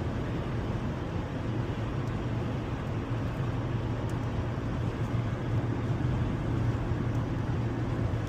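Car on the move: a steady engine hum and road noise, growing slightly louder in the second half.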